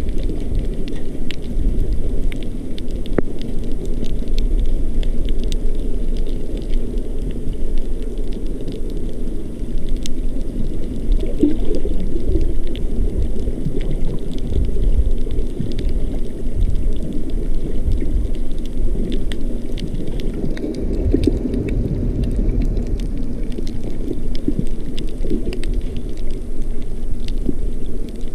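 Muffled, steady underwater rumble of moving water with a scatter of faint crackling clicks, as heard by a camera filming a coral reef below the surface.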